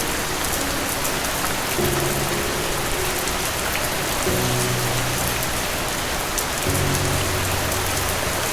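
Steady rain falling, an even hiss with scattered drop ticks, with soft low piano chords sounding about every two and a half seconds underneath.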